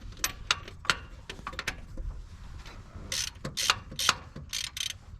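Hand ratchet wrench clicking in short, uneven strokes, spaced out at first and coming in a quicker run of longer strokes in the second half.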